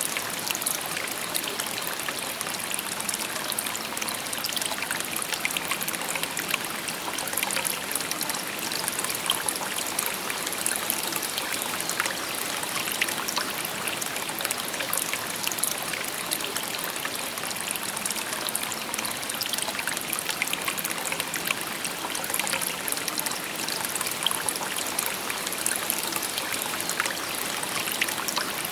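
Shallow river babbling steadily: an even rush of running water flecked with small splashes and trickles.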